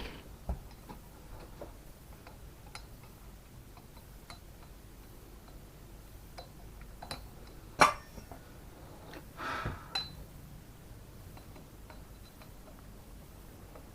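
Light scattered clicks and taps of metal parts and tools being handled, with one sharper click about eight seconds in and a short scrape just before another click near ten seconds.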